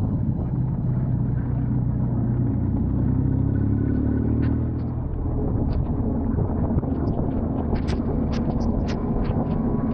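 BMW R1250 GS Adventure boxer-twin engine running under way, with wind and road noise. The engine pitch rises slightly a couple of seconds in. A scatter of sharp clicks comes in the second half.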